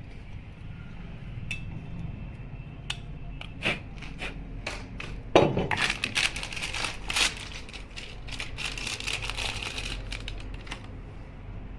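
Metal clinking and tapping from hand work on water-pump parts: a few separate clicks, then a run of quick, rapid clinks lasting several seconds.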